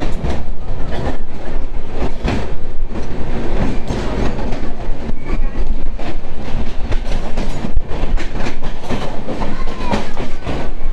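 Passenger train running, its wheels clattering irregularly over rail joints above a steady, loud rumble.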